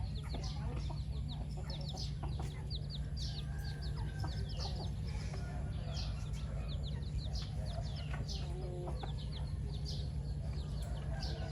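Chickens calling, many short high peeps that fall in pitch, overlapping continuously, over a steady low rumble.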